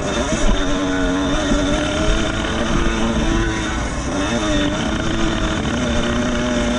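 Vintage 125 cc two-stroke motocross bikes racing, engines revving up and down as the riders work the throttle.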